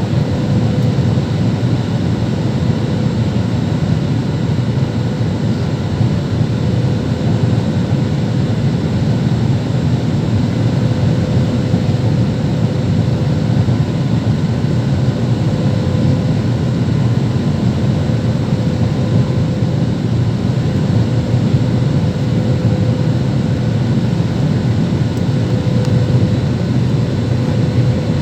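Steady drone of a Boeing jet airliner's engines and rushing air, even in loudness throughout, with a faint steady hum on top.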